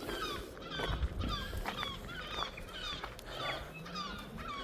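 Several birds giving short, falling honk-like calls, a few a second and sometimes overlapping. A brief low rumble comes about a second in.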